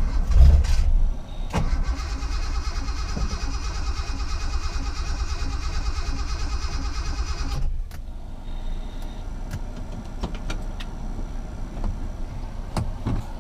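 The Datsun 240Z's L28 straight-six being cranked on the starter with a steady pulsing churn. It does not catch and stops abruptly after about six seconds.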